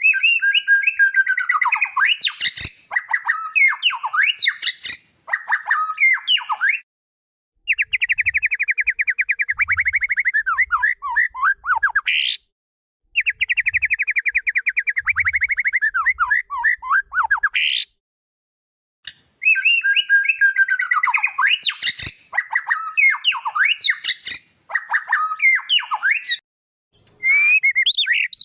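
White-rumped shama (murai batu) song played back in repeated phrases of several seconds each. Each phrase opens with a fast trill of rapid repeated notes and breaks into quick sweeping whistles, with short silent gaps between phrases.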